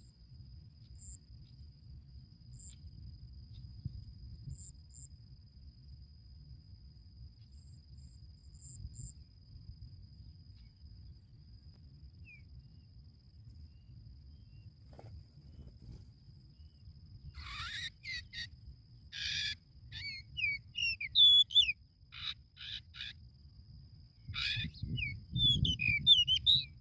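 Birds calling at a sooty chat nest: about two-thirds of the way in, bursts of loud, harsh, raspy calls start, mixed with quick whistled notes that glide up and down, densest near the end. Before them only a faint steady high cricket-like tone is heard.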